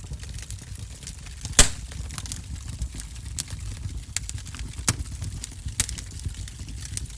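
Fireplace fire crackling: irregular sharp pops and snaps over a low steady rumble of flames, the loudest pop about a second and a half in.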